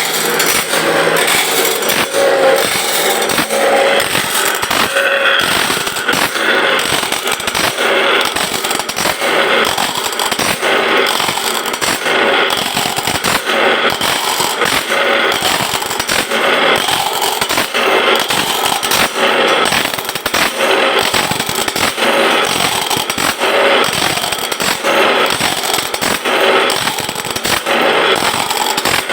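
Bandsaw blade sharpening machine running: a grinding wheel rasping on the blade's teeth in a cycle that repeats about once a second, with fine clicking throughout.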